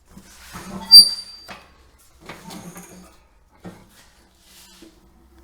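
A sharp metallic clink about a second in, ringing briefly with a few high, clear tones, among lighter knocks and rustling of tools and parts being handled.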